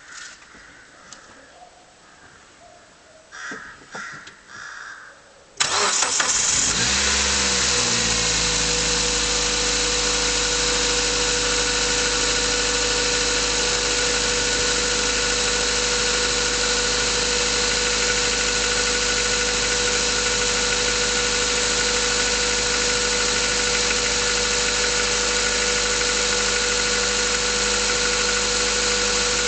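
Mazda 3 engine cold-started: after a few faint clicks it catches suddenly about five and a half seconds in, its speed dips and settles over a couple of seconds, then it runs at a steady idle with the noise it makes when cold.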